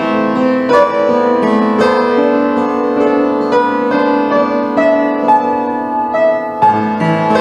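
Slow instrumental piano music: single notes struck over held chords, with a new note about every half second to a second.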